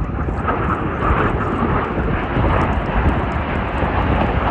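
Aircraft engine noise, a loud steady rush with no clear pitch.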